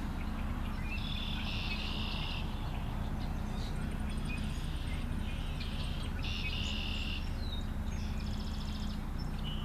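Wetland wildlife calling: buzzy, trilling calls about a second long, repeating every few seconds, with a quicker high trill near the end, over a steady low rumble.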